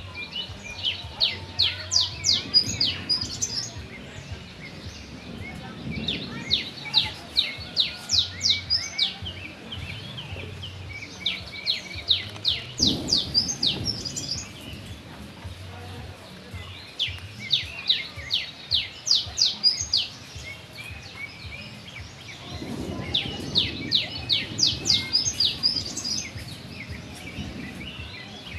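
A bird singing the same phrase over and over: a quick run of sharp, high notes lasting a few seconds, repeated about five times with short pauses between.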